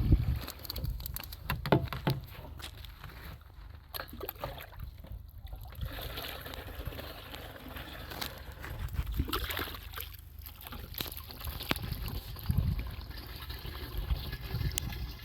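Water splashing and trickling, with scattered knocks and clatter over a low rumble.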